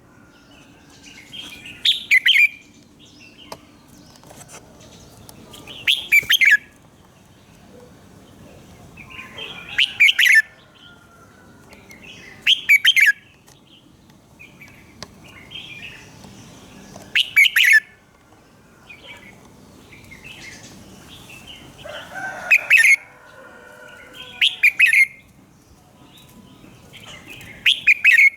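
Red-whiskered bulbul singing loud, short, warbled phrases, about eight of them, a few seconds apart. This is the bright morning song that keepers play as a decoy to train other bulbuls to sing.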